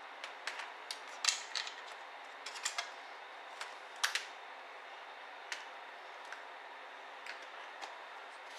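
Scattered light clicks and taps of ThinkPad T60p laptop parts being handled during disassembly, over a steady hiss; the clicks come irregularly, loudest in a cluster about a second in and again about four seconds in.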